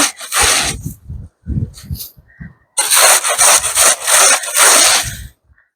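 Snow shovel scraping through heavy, wet, packed snow. A short scrape is followed by a few dull knocks, then one long scrape runs for about two and a half seconds from around three seconds in.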